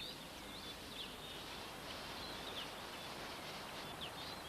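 Faint grassland ambience: small birds giving short high chirps, several a second, scattered over a steady hiss.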